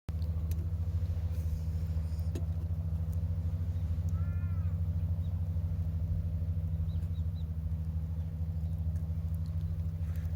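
An engine idling steadily: a low, even hum with a fast regular pulse. A brief chirp comes about four seconds in.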